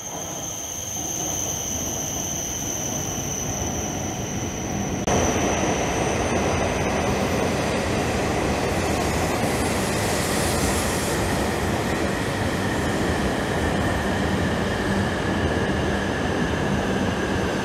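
Shinkansen bullet train pulling into the platform: a steady high whine at first, then about five seconds in the rushing of the train jumps louder and stays steady.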